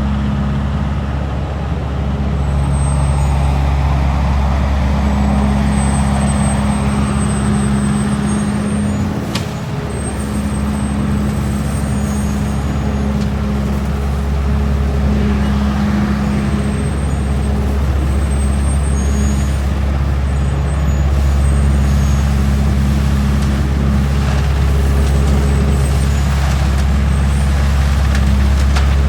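Leaf collection truck's engine running steadily, a continuous low hum with a faint high whine above it and a brief dip about nine seconds in.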